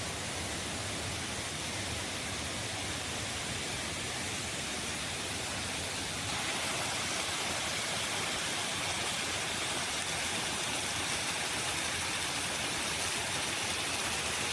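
Steady rush of flowing water, stepping up slightly in level about six seconds in.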